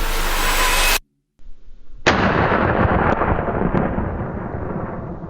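Heartbeat-style music cuts off about a second in. After a short silence, a sudden loud boom starts and fades slowly over the next few seconds.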